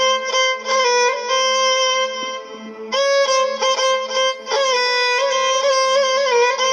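Violin playing an instrumental phrase between sung lines of an Iraqi Mohammedawi mawwal: long held notes with quick ornaments, pausing briefly about two seconds in before resuming, over a steady low drone note.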